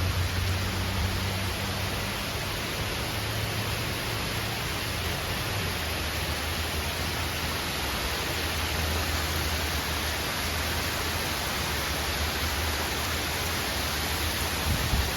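Heavy rain pouring down in a steady, dense hiss, with a low rumble that comes and goes underneath.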